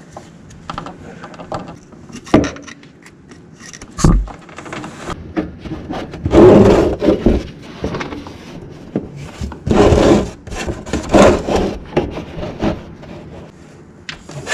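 Hand tools working the transaxle drain plug loose under a garden tractor: irregular scraping, rubbing and knocking of metal, with louder rasping stretches around the middle.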